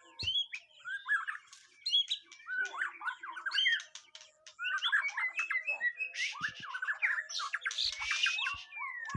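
White-rumped shama (murai batu) singing a fast, varied song of rapid trills and whistled sweeps mixed with harsh rasping notes, with a brief pause about four seconds in.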